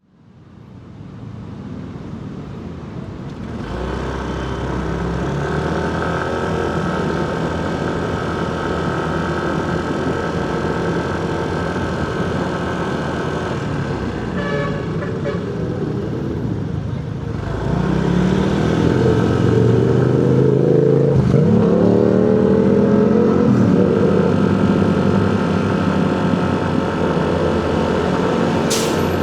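Motorcycle engine running in street traffic, heard from the rider's seat, fading in over the first few seconds. From about 18 seconds in, the engine gets louder and its pitch rises and falls several times as the bike accelerates and eases off.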